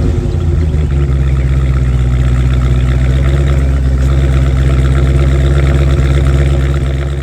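A vehicle engine idling steadily just after starting, a strong low-pitched hum that settles about a second in.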